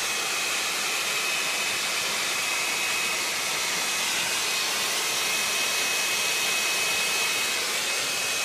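Handheld blow dryer running steadily, a constant rush of air with a thin high whine, blowing warm air onto a garage door's safety sensor to warm it up in the cold.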